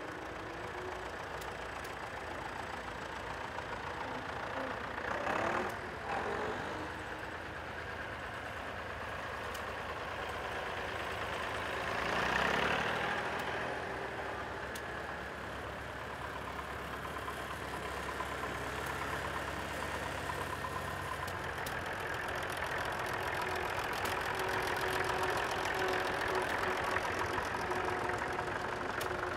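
Vintage tractor engines running at idle. The sound swells louder briefly about five seconds in, and again more strongly around twelve seconds in.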